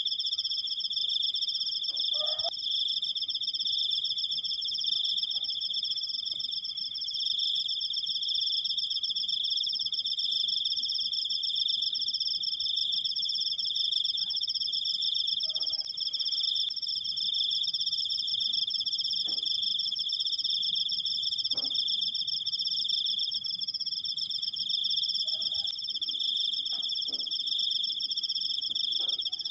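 Cricket (jangkrik) singing one long, unbroken, high-pitched trill that holds steady in pitch and loudness, with faint short calls from other creatures in the background.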